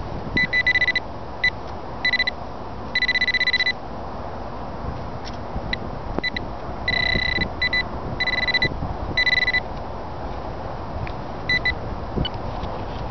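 Golden Mask metal detector giving its target tone: short, high beeps again and again as the coil sweeps back and forth over a buried signal, some under a second long and some just blips, with wind noise on the microphone underneath.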